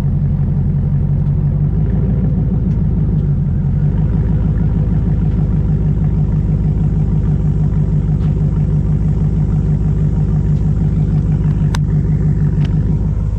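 Land Rover Defender 90 V8 running steadily through a full custom exhaust, with a deep, even exhaust rumble. A couple of brief clicks sound near the end.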